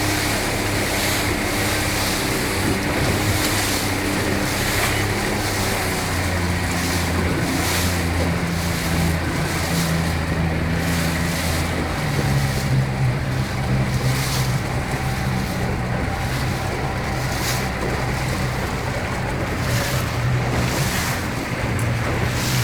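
Motorboat engine running steadily under a constant rush of wind and water past the hull; about halfway through, the engine note steps up in pitch.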